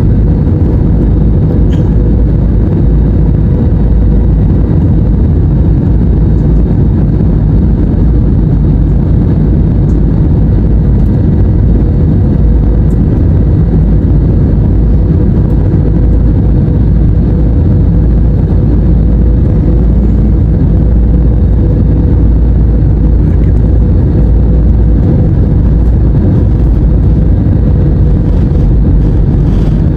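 Loud, steady low rumble of a moving vehicle heard from inside its cabin, with a faint steady hum running through it.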